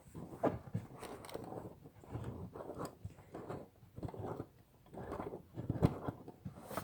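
Hands working the metal-and-plastic frame of an umbrella, pushing the pin and spring into the shaft and runner: irregular clicks, scrapes and rattles.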